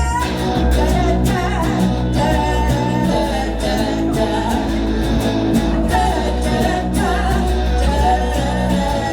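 Live band playing a pop-rock song: steady bass notes, guitar and drums keeping a regular beat, with singing over the top.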